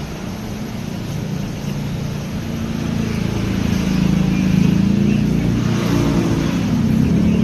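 A motor vehicle's engine running close by, a low hum that grows louder over the second half.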